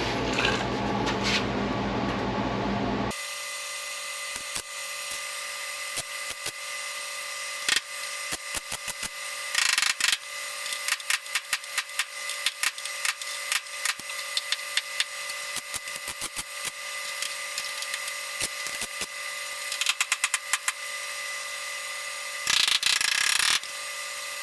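MIG welder tack-welding a steel patch panel into a car's rusted quarter panel: many short crackling bursts and sharp clicks, with a longer burst of welding about ten seconds in and another near the end.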